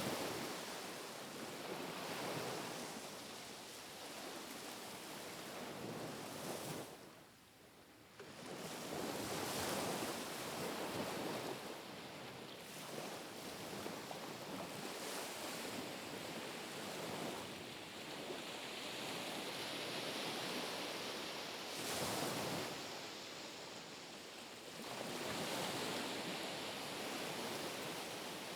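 Small, gentle sea waves lapping on the shore, a soft wash that swells and falls away every few seconds as each long, low wave comes in. The wash drops away briefly about seven seconds in.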